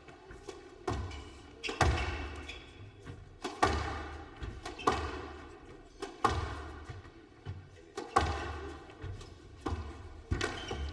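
A squash rally: the hard rubber ball is struck by rackets and smacks off the court walls in sharp thwacks, about one every second or so, each with an echoing ring.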